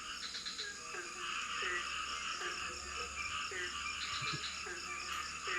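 Frogs calling repeatedly in a rainforest night chorus, short falling calls about one and a half a second, over a steady, pulsing insect drone.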